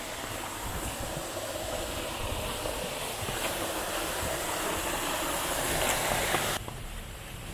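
Steady rushing water of a waterfall, a full hiss that swells slightly and cuts off abruptly near the end.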